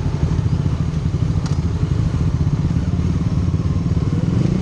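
Motorcycle engine running steadily, its rapid firing pulses loud and even throughout.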